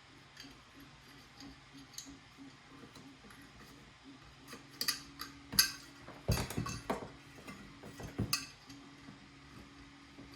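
Small clicks, clinks and a few heavier knocks as parts and tools are handled on a workbench, bunched between about four and a half and eight and a half seconds in. Under them runs a faint low hum that pulses at first and turns steady partway through.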